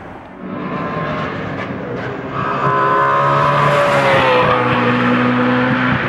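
A car engine revving and accelerating, louder from a little over two seconds in, its pitch sliding down near the middle and then holding steady.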